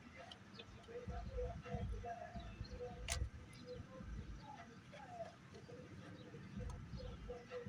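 Faint birds calling in short repeated chirps, with one sharp click about three seconds in and low rumbling underneath.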